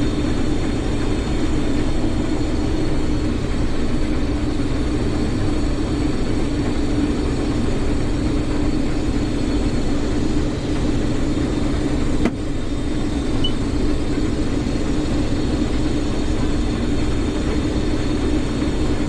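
Combine harvester running steadily, a constant engine and machinery drone with a strong hum. A single sharp click about twelve seconds in.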